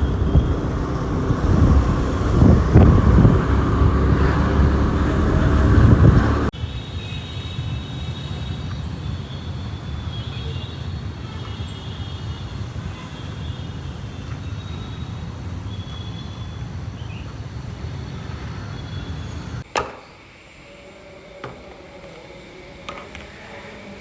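Road traffic noise: vehicles going by, with a loud, rumbling passage in the first few seconds. It then changes abruptly to a steadier, quieter hum, and drops quieter again near the end.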